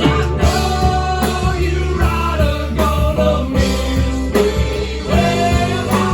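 Live band playing an instrumental passage: guitar lead over bass and drums, in a blues-rock style.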